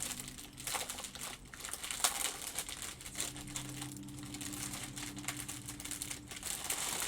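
Small plastic baggies of diamond painting drills crinkling as they are handled, with scattered sharp clicks, over a steady low hum.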